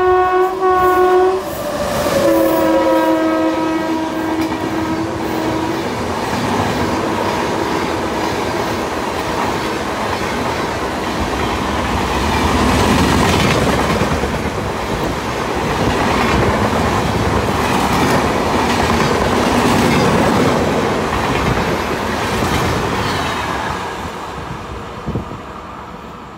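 Indian Railways electric locomotive passing through a station at full speed. Its horn sounds until about a second in and again in a longer blast from about two to six seconds in. Then comes the rumble and clickety-clack of the passenger coaches running past, fading near the end as the train draws away.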